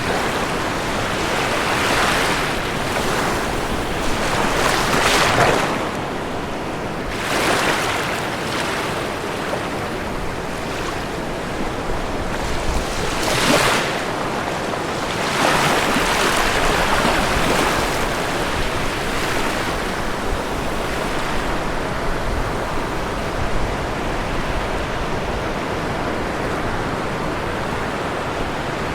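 Ocean waves breaking and washing on a shore, a steady rush of surf that swells with each wave every few seconds.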